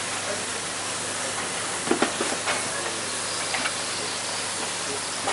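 Food sizzling steadily in a frying pan, with a few light clicks of utensils about two seconds in and again a little later.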